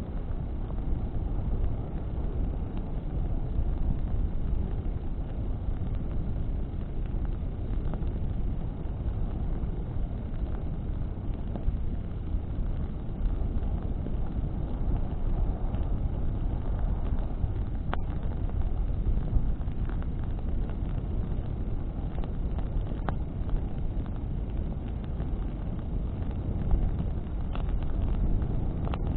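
Bonfire burning in a wind: a steady low rumble of flames and wind on the microphone, with a few sharp crackles of burning wood.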